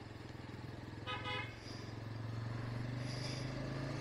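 Bajaj Pulsar N160's single-cylinder engine running steadily under the rider, with a short vehicle horn honk about a second in.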